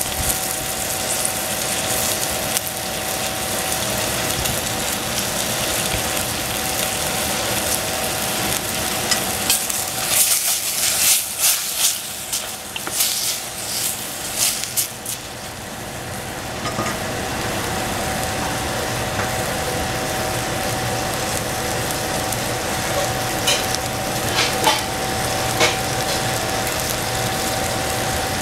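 Food frying in hot oil in a pan, with a steady sizzle. From about a third of the way in to just past halfway, a utensil clicks and scrapes against the pan as the food is stirred or turned.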